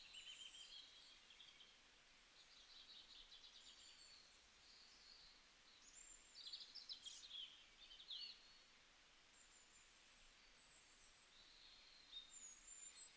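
Near silence with faint birds chirping in the background: scattered short chirps and whistles, a little livelier about halfway through and again near the end.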